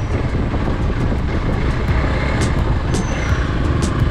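Hero Xpulse motorcycle's single-cylinder engine running steadily on the move, with wind rush on the bike-mounted action camera's microphone and a few light ticks in the second half.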